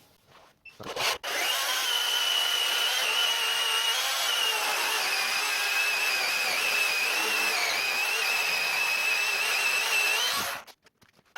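Greenworks cordless brushless electric chainsaw cutting through a firewood log with a steady high whine. The pitch sags a little as the chain bites and rises again near the end. It stops abruptly when the trigger is released, as the chain brake halts the chain at once.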